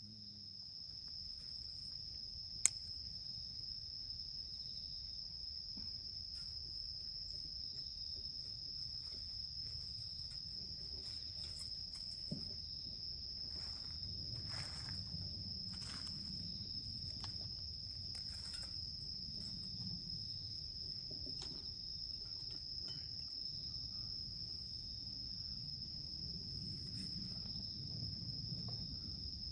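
Insects chirring steadily in one unbroken high-pitched tone, with a few faint crackles and one sharp click about three seconds in.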